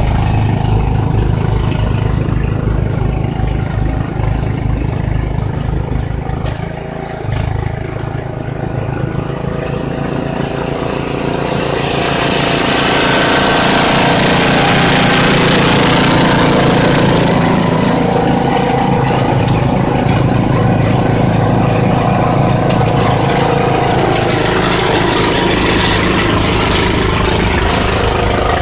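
Ariens snowblower engine running steadily. A broad rushing noise builds up about twelve seconds in and carries on over the engine.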